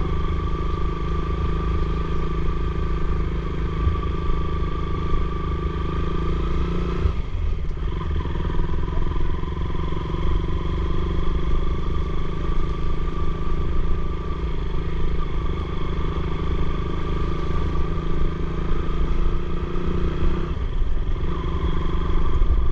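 Motorcycle engine running steadily under way, over a heavy low rumble. The engine note breaks off and picks up again twice, about seven seconds in and near the end.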